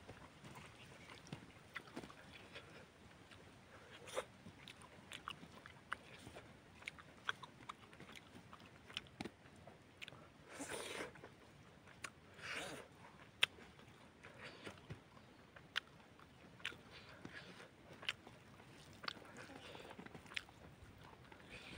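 Close-up mouth sounds of eating boiled chicken and rice: chewing with wet lip smacks and many short, sharp clicks, and a couple of longer breathy swells around the middle.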